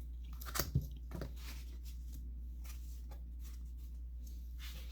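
Trading cards being handled and flipped through: a few soft clicks and taps, mostly in the first second or so, over a steady low hum.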